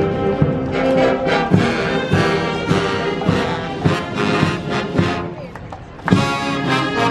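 Brass band music, trumpets and trombones, playing continuously; it fades down and comes back in abruptly about six seconds in.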